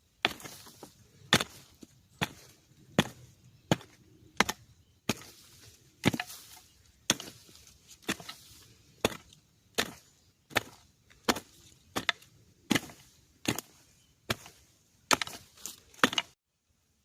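Steady chopping with a blade at a bamboo shoot, about twenty sharp strokes at roughly one every three-quarters of a second, stopping suddenly near the end.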